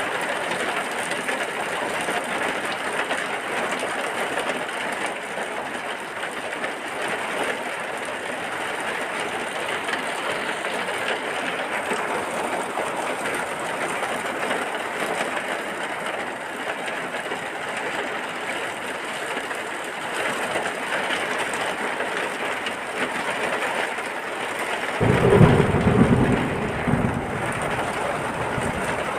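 Steady, heavy rain falling. Near the end comes a short, low rumble of thunder lasting about two seconds.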